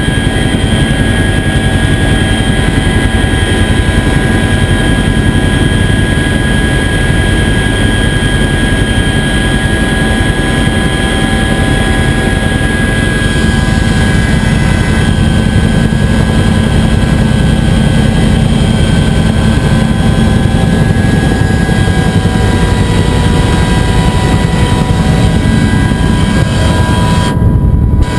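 Bell UH-1 Huey helicopter running steadily in flight: heavy rotor and engine noise with a steady high turbine whine over it. The high sound drops out briefly just before the end.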